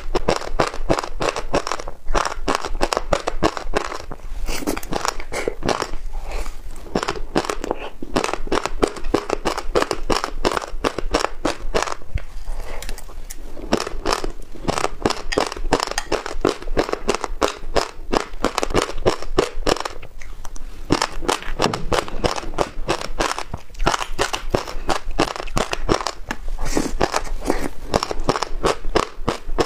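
Passionfruit seeds in yogurt being chewed: a dense, unbroken run of rapid crunches and crackles.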